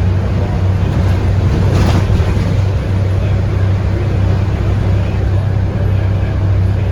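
Scania K230UB bus heard from inside the cabin: its 8.9-litre five-cylinder Scania DC9 diesel runs steadily with a strong low drone under road and body noise. A brief hiss of noise comes about two seconds in.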